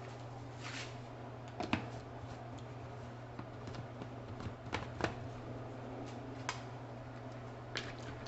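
Scattered light clicks and knocks of a blender jar and its lid being handled, a handful of them at irregular intervals, over a steady low hum.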